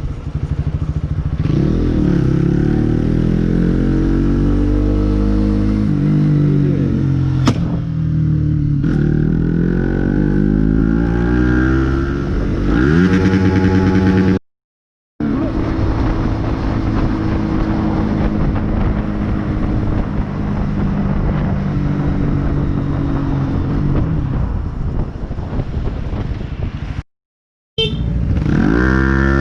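Motorcycle engine running, its pitch climbing and dropping repeatedly as the bike accelerates and changes gear, over a steady rush of road noise. The sound cuts out completely twice for under a second.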